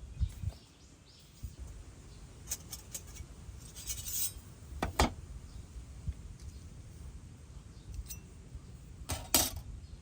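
Light clinks of small hard objects knocking together: a few scattered taps, a louder clink about five seconds in, and another pair near the end.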